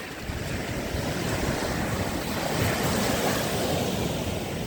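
Lake Ontario waves washing against the shore in a steady rush that swells a little in the middle, with wind rumbling on the microphone underneath.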